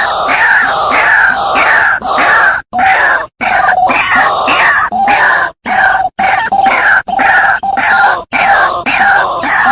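White-breasted waterhen (ruak-ruak) calling over and over in loud, harsh croaking notes, about two a second, each note sliding down in pitch, with a few brief breaks.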